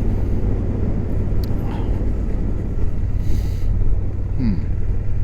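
Suzuki GSX-8S parallel-twin engine running at a steady pace, heard with wind and road noise from a microphone inside the rider's helmet. A short hiss comes about three seconds in.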